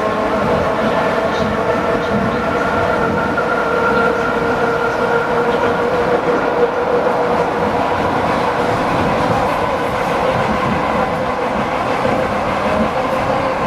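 ED4M electric multiple unit running between stations, heard from inside a carriage: a steady rumble of wheels on rail with a steady whine over it from the electric traction drive.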